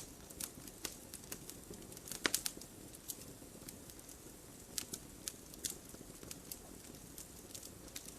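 Wood fire crackling: irregular sharp pops and snaps over a low steady rustle, with a quick cluster of louder snaps a little over two seconds in.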